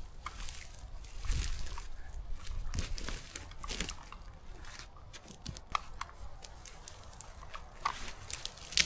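Irregular crunches and rustles, scattered short clicks over an uneven low rumble.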